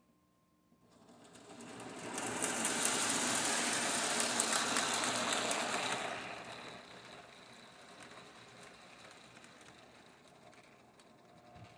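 Amtrak train pulling into the station: a rapid rattling clatter of wheels on rail builds about a second in, is loudest for a few seconds as the cars pass close, then dies down to a lower steady rumble as the train slows.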